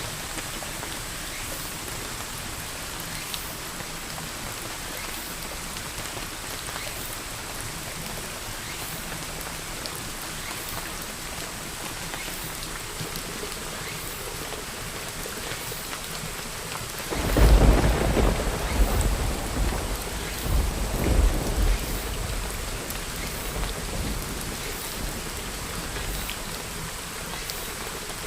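Steady rain falling, with a clap of thunder that breaks in suddenly about two-thirds of the way through and rumbles on for several seconds before fading back into the rain.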